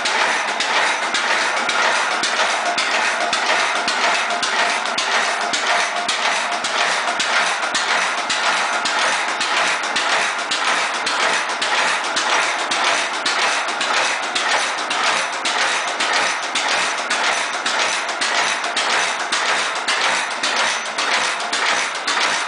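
1923 Witte 15 horsepower stationary gas engine running steadily, a regular clattering beat of about three strokes a second that holds even throughout.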